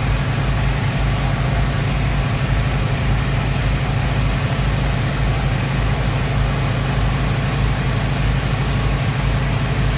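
Passenger speedboat's engines running at a steady pace, a continuous low drone with a rapid pulse and a wash of noise above it.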